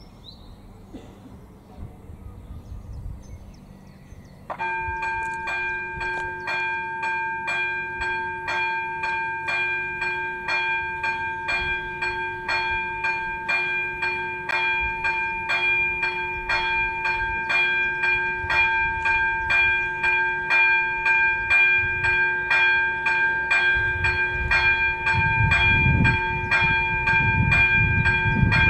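AŽD ZV02 electronic level-crossing bell starts suddenly about four seconds in and rings on in evenly repeated strokes, warning of an approaching train. Near the end a train's low rumble grows beneath it.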